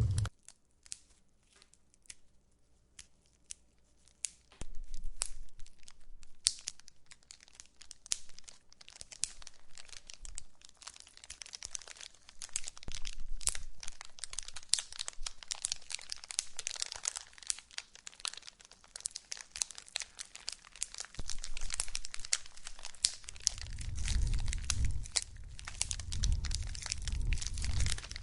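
Wood fire crackling and popping in a fireplace: sparse pops at first, then a denser crackle from about four and a half seconds in. A low rumble of the flames comes in near the end.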